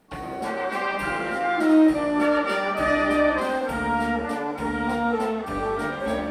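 Instrumental introduction of a waltz, a melody line over a bass line, starting abruptly.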